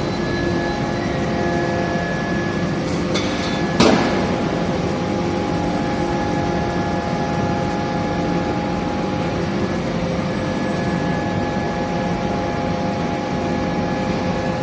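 Steady factory machinery noise from an automatic forging line, with several constant hum tones, and a single sharp bang about four seconds in.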